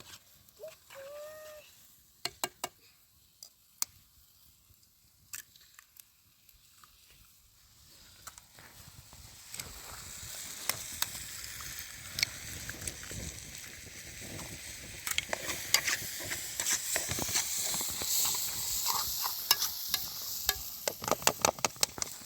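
Food sizzling in a hot pan, the hiss building from about nine seconds in, with sharp clicks and scrapes of stirring that come thick and fast near the end.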